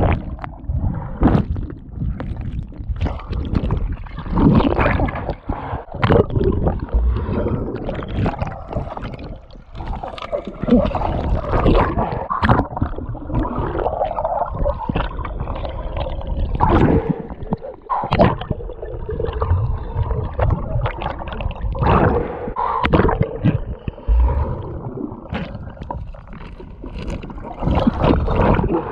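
Water sloshing, splashing and gurgling around a person swimming in a river, in irregular surges.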